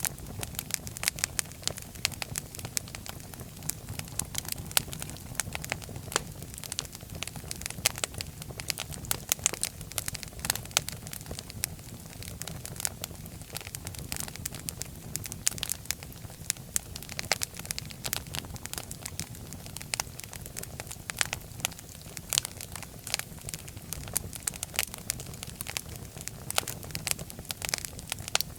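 Fire crackling in a fireplace: dense, irregular pops and snaps over a low, steady rumble.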